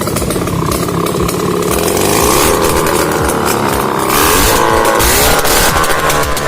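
Velorex 16/350's Jawa 350 cc two-stroke twin engine running after restoration and being revved, its pitch rising twice.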